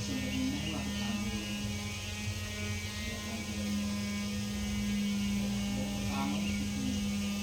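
A steady low electrical hum with evenly spaced overtones, its main tone growing stronger about three and a half seconds in.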